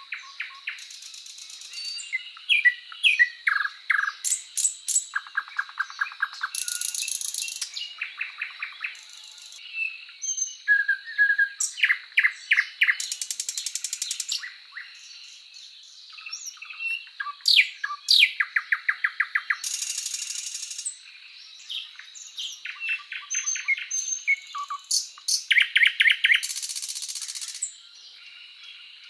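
Several songbirds singing and calling one after another: rapid trills, buzzy note series and short rising and falling whistles, with a thin steady high tone behind them.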